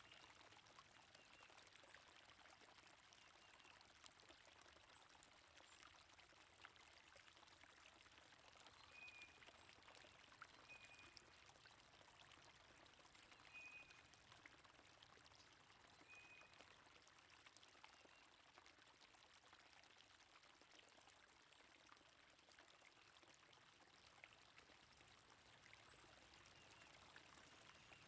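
Faint, steady flowing stream water, with a few short, high bird chirps scattered through.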